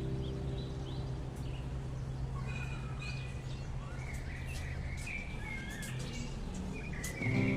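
Small birds chirping in short, repeated calls, with a low sustained music chord fading out under them; guitar music comes back in at the very end.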